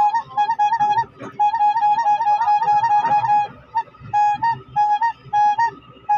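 Kobelco SK200 excavator's 'tolet tolet' signal tone, like a telolet musical horn: one held note with quick upward flicks about four times a second. It runs unbroken for about two seconds, then comes in short bursts with brief gaps.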